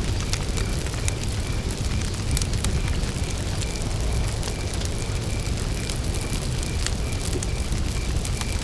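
Campfire burning with a steady low rumble and scattered sharp crackles and pops of wood. A cricket chirps throughout in short, evenly repeating pulses, a few a second.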